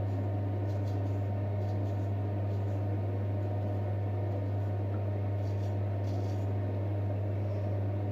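Steady low hum throughout, with faint, brief scrapes of a straight razor drawn over stubble.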